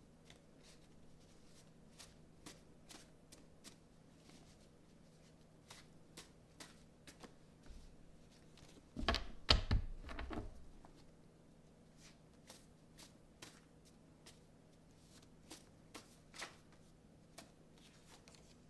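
Tarot cards being shuffled by hand: soft, scattered flicks and riffles of the cards, with a louder burst of shuffling about nine seconds in.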